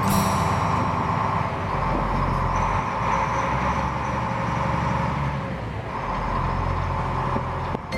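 A large engine running steadily with a low rumble and a noisy hum, cutting off shortly before the end.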